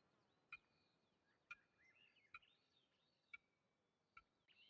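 Near silence with faint bird chirps: short chips about once a second and soft warbling between them.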